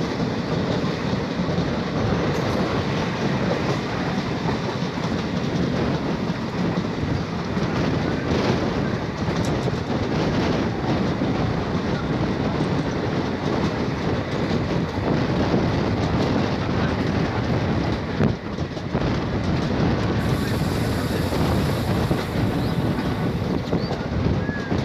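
Passenger train running along the track, heard from aboard a coach: a steady rumble of the coach's wheels on the rails.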